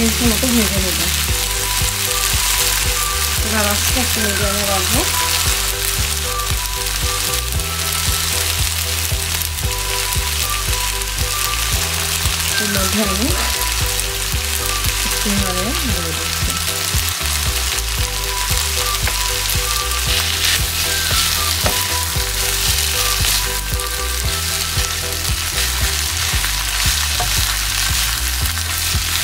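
Chicken and noodle stir-fry sizzling steadily in a wok on a gas hob, stirred and tossed now and then with a spatula and tongs.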